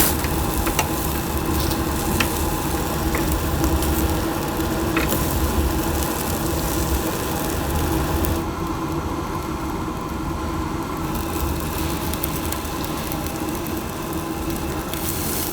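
Chicken sizzling over a charcoal grill, with a few sharp crackles and a steady hum underneath; the hiss thins out about halfway through.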